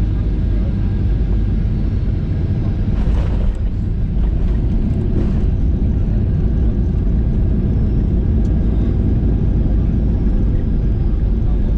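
Steady low rumble inside the passenger cabin of a Ryanair Boeing 737-800 during its descent: jet engine and airflow noise, with a couple of faint brief sounds about three and five seconds in.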